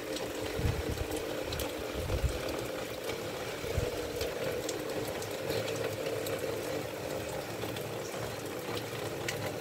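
Rain falling, with runoff pouring in a thin stream off the end of a metal sheet at a tiled roof's edge: a steady hiss with many small drip splashes.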